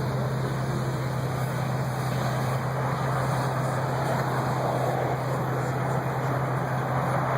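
Car engines running in street traffic: a steady low hum under an even wash of noise.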